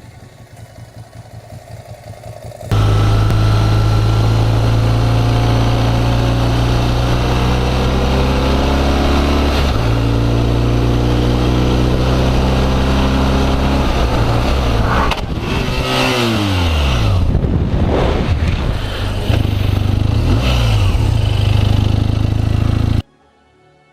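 Motorcycle engine running hard and loud, its pitch climbing slowly, then falling away steeply about two thirds through before steadying again. The sound starts and stops abruptly.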